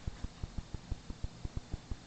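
Camera's own mechanical noise: rapid, regular low ticking thumps, about seven a second.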